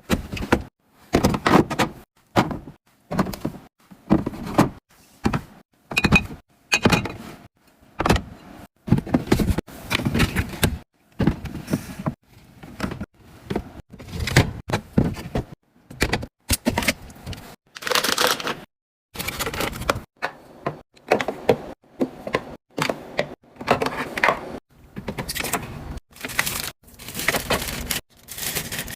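Fridge restocking: containers, lids and fridge drawers being handled and set down, a steady run of clicks, knocks and clatters in short bursts with abrupt breaks between them.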